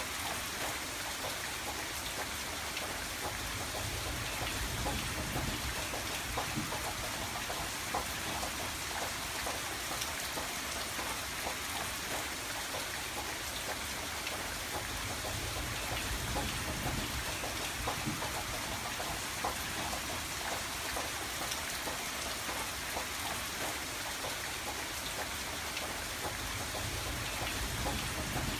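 Steady rain against a window: a constant hiss with many small drop taps, over a low rumble that swells and eases every few seconds.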